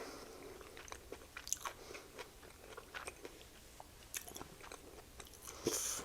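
Close-miked chewing of a chicken sandwich: a run of short wet mouth clicks and smacks, with a short louder burst of noise near the end.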